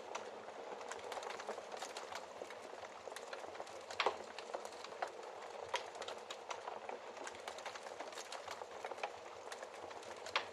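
Wood fire burning in a fireplace, crackling steadily with sharp pops scattered throughout; one louder pop about four seconds in and another near the end.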